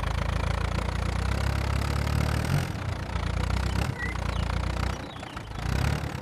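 Tractor engine running steadily with a low rumble, easing briefly about five seconds in and picking up again.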